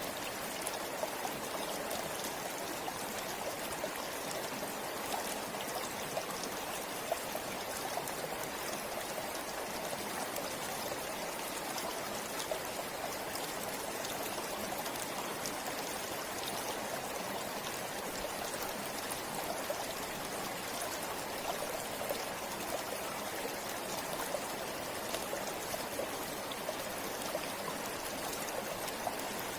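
Forest river flowing steadily over stones, a continuous rushing of water with small splashes and trickles through it.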